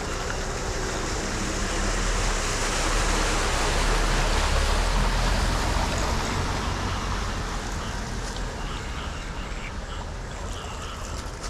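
Steady rushing of water on a flooded street. It swells louder for a few seconds in the middle with a low rumble, then eases off.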